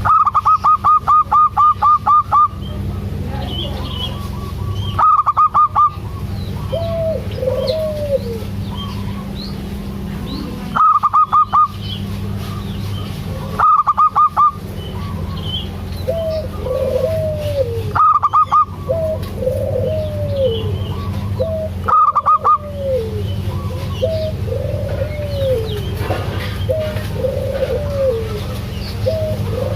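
A zebra dove (perkutut) repeatedly calling with arched, rising-and-falling coos. Short trains of rapid, higher-pitched pulses break in every few seconds, the longest about two seconds long near the start. A steady low hum runs underneath.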